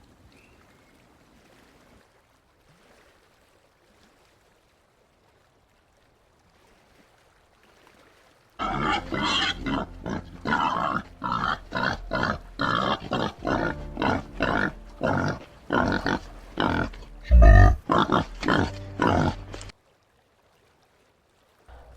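White-lipped peccary grunting in a fast, unbroken run of short calls, about two a second, starting about nine seconds in and stopping abruptly near the end, with one louder low thump among them.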